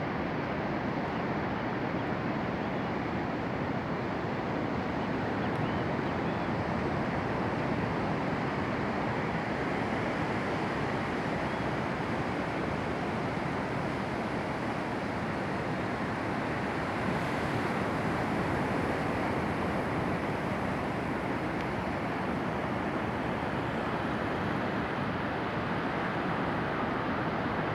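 A steady, even rushing noise that holds the same level without a break.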